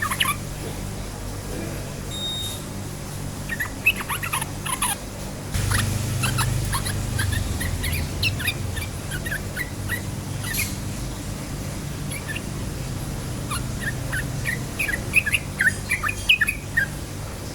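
Yellow-vented bulbul singing in quick runs of short, bubbly chirps, the notes bunching into rapid bursts, densest near the end, over a steady low hum.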